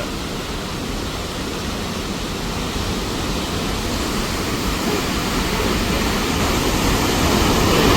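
Waterfall rushing, a steady roar of falling water that grows a little louder toward the end.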